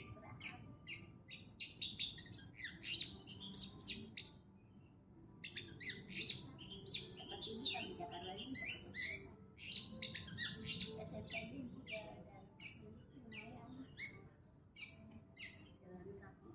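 Long-tailed shrike (cendet) singing: a fast, dense run of high chirps and varied notes, with a short break about four seconds in.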